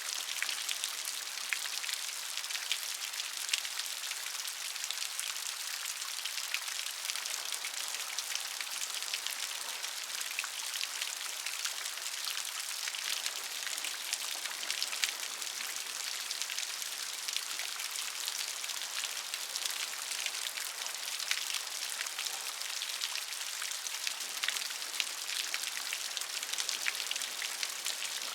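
Steady rain falling, an even hiss of many fine drops pattering on a surface, with no thunder.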